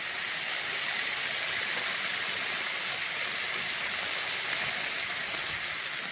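Spicy chicken pieces in masala sizzling steadily in a pot as the cooking water boils off.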